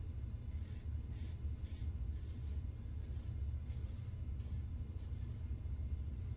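Double-edge safety razor scraping stubble through shaving lather in short strokes, about two a second, over a steady low hum.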